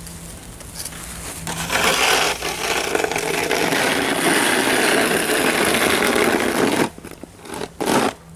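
Snow shovel scraping along a driveway in one long push of about five seconds, followed by two short scrapes near the end.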